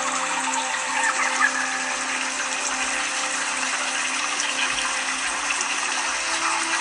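A steady rushing noise with a few faint steady tones under it.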